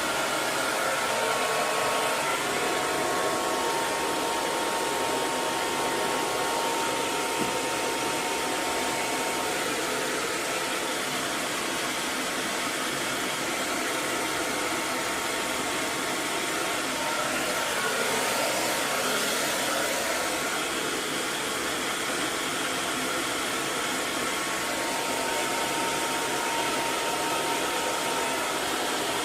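Hair dryer running steadily, a continuous airy rush of fan and blown air with a faint steady whine.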